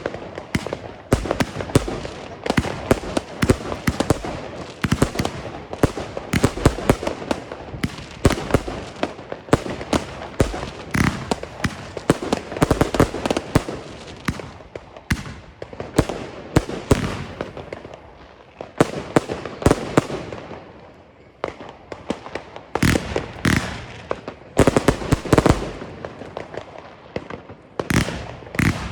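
Firework battery cakes firing a rapid series of shots, each launch followed by a burst, with a short lull about two-thirds of the way through before the shots resume. These are consumer cakes of white strobing dahlia effects.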